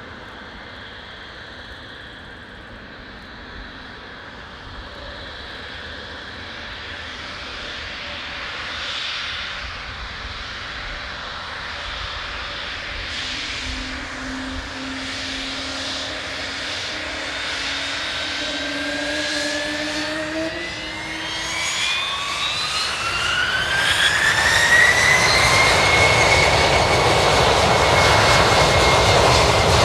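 Gulfstream G500's twin Pratt & Whitney Canada PW814GA turbofans running and growing steadily louder, with a high whine that climbs sharply in pitch about two-thirds of the way through and then holds steady: the engines spooling up to takeoff power.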